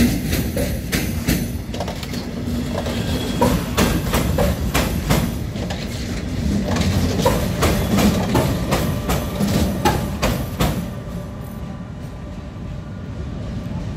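Passenger train passing close by, its wheels clattering over rail joints and points in a dense run of clicks over a steady low rumble. The clicking stops about eleven seconds in, leaving a quieter rumble.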